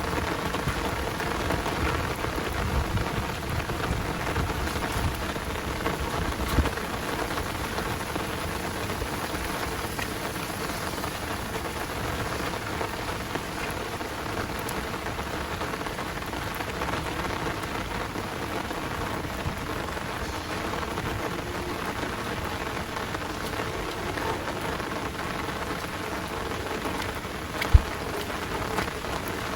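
Heavy rain falling steadily, a dense even hiss, with a low rumble in the first several seconds. Two short sharp knocks cut through it, about six seconds in and near the end, the second the louder.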